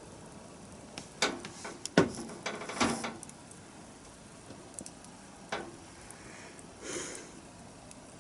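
Wood bonfire crackling, with a burst of sharp pops and cracks about one to three seconds in, a single pop later on and a softer hiss near the end.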